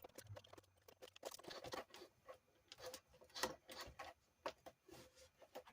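Faint, scattered small clicks and taps of hands working on an RC car: small parts and a screwdriver handled while screws go into the differential housing.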